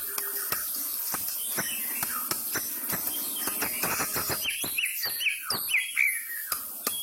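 White-rumped shama (murai batu) singing in full song: scattered sharp clicks and short notes, then from about halfway a run of repeated downslurred whistles.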